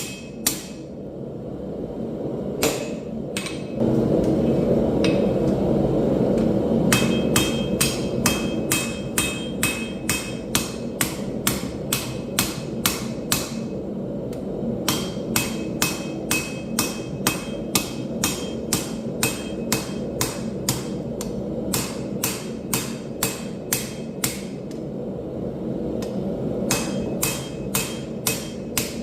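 Hand hammer blows on hot steel over an anvil, in runs of about two to three strikes a second, each with a short metallic ring, broken by brief pauses. A steady rushing noise runs underneath and grows louder about four seconds in.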